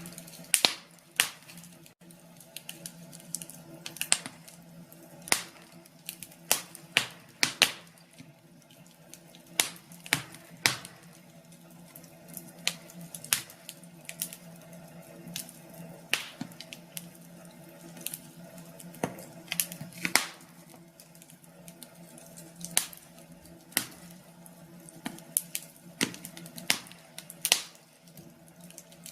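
Wood fire crackling, with irregular sharp pops, one or two a second, some louder than others.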